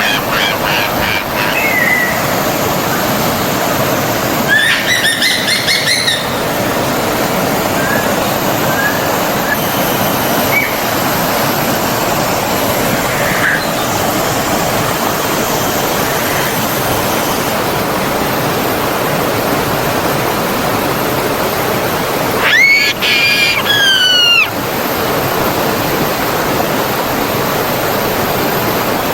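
Steady rushing of a forest stream, with birds calling over it: a burst of chirping about five seconds in, a few short single chirps, and a louder call of falling notes near the end.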